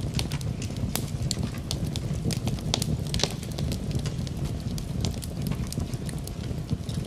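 Wood fire crackling in a fireplace: frequent irregular sharp pops and snaps over a steady low rush.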